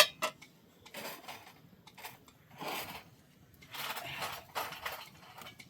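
Two sharp clicks close together, then irregular scraping and rustling handling noises in a few separate bursts.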